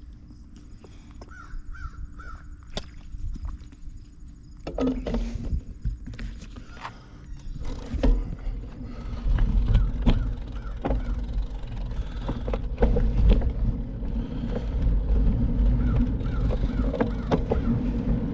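Wind buffeting the microphone of a moving bicycle, a low rumble that grows louder about halfway through, with short runs of repeated bird calls and a few light clicks over it.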